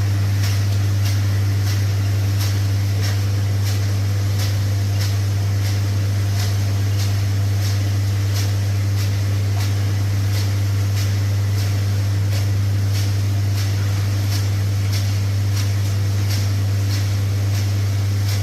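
Steady, loud low hum of a running motor, with faint, even ticking about one and a half times a second.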